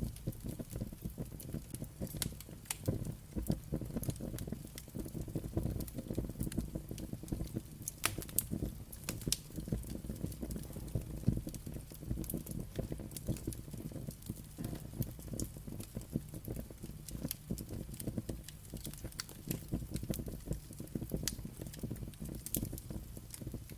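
Wood fire crackling in a fireplace: a steady low rumble of the flames with many sharp, irregular pops and snaps throughout.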